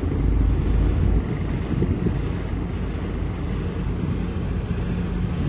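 Heavy diesel engine running steadily, with wind rumbling on the microphone heaviest in the first second.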